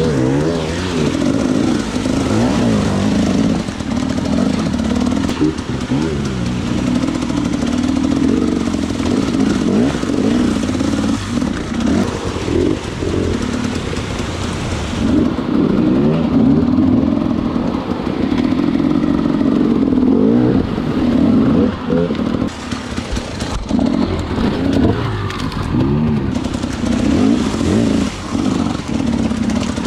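Enduro motorcycle engine revving up and down again and again, its pitch rising and falling with the throttle.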